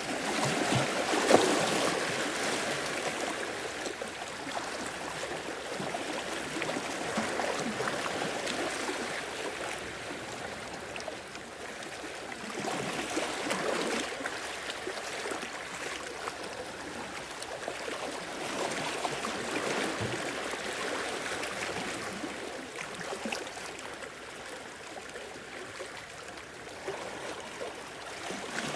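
Sea waves washing in and draining back with a gurgle, swelling and fading about every six seconds, the loudest a second in.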